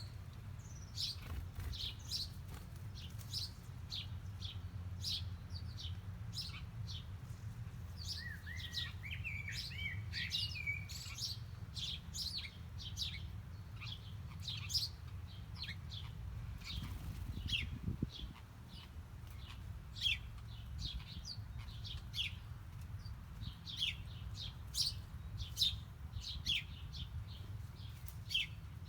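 Small birds chirping: many short, high, quick chirps one after another, with a warbling, twittering phrase about eight seconds in. A steady low rumble runs underneath.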